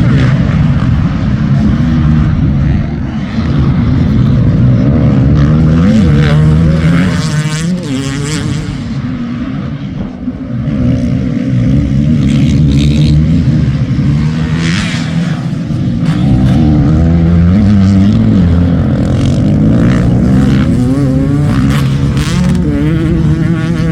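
Motocross motorcycle engines revving and running at race pace, their pitch rising and falling as riders throttle on and off, with a dip in level about three seconds in and again near the middle.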